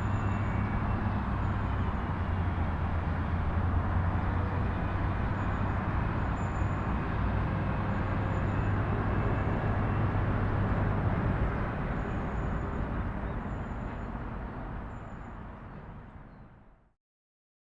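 Steady low rumble with a hum and hiss, like distant vehicle noise, fading out over the last few seconds and ending in silence.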